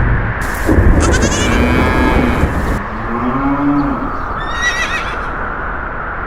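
Farm animal calls, several in turn: a higher call, then a lower one, then a short run of rising chirps, over a steady background noise.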